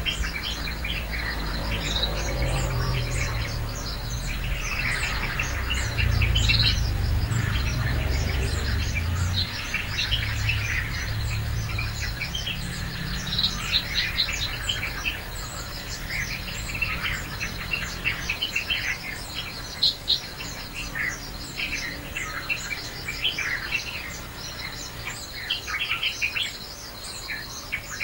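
Many small birds chirping and calling in quick short notes throughout, with a low rumble underneath for about the first ten seconds.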